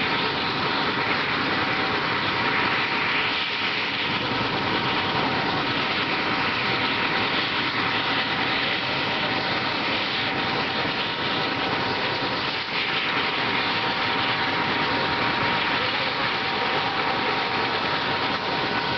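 Mil Mi-17 helicopter's twin turboshaft engines and rotor running steadily: a loud, even rush of noise with a steady high whine over it.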